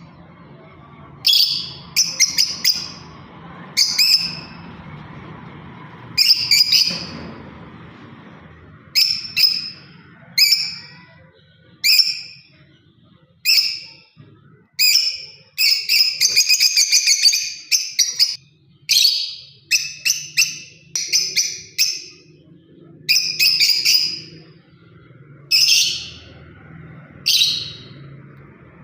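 Lovebird giving short, sharp, high-pitched chirps, one every second or two, with a quick run of rapid chirps about halfway through.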